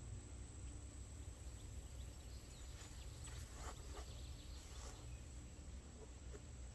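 Faint outdoor ambience: a steady insect drone and a low rumble, with a few faint, brief bird calls in the middle.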